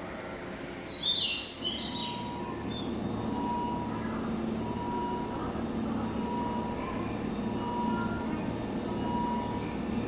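Electric train humming steadily, with a faint high tone pulsing every second or two; birds chirp about a second in and again near the end.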